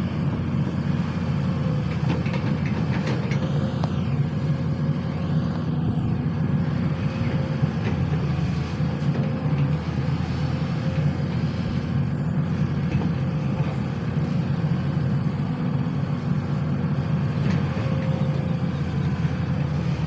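Sany SY215C excavator's diesel engine running steadily, with a faint wavering whine over the low rumble.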